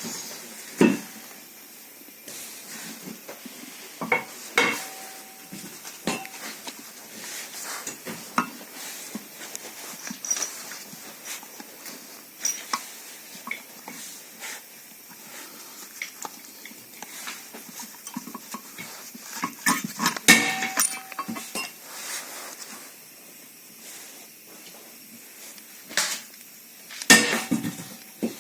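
Metal tools and brake caliper parts being handled: scattered clinks and clanks, a few ringing briefly, with the busiest clusters about two-thirds of the way through and near the end.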